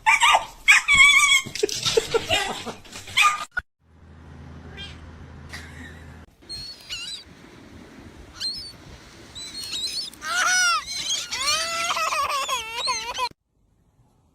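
Cats meowing across a few short clips, ending in a run of quick rising-and-falling meows that stops abruptly.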